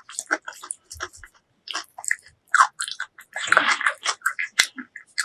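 Close-miked chewing and biting of braised pork leg: a quick run of short clicks, with a denser, louder stretch about three and a half seconds in.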